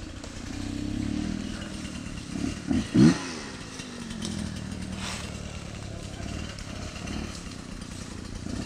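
Dirt bike engine running, revved up sharply twice in quick succession about three seconds in, then dropping back to a steady low run.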